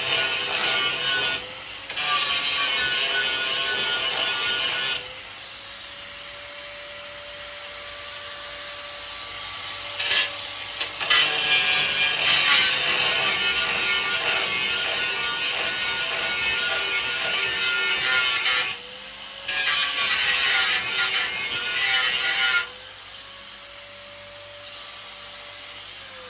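Electric angle grinder cleaning paint and rust off sheet steel in several long passes, with a steady motor whine whenever it is lifted off the metal. Near the end it is switched off and winds down.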